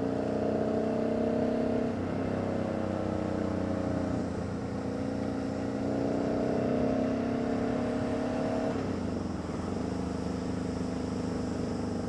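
Motorcycle engine running while riding, its note dipping and climbing again a few times as the throttle changes.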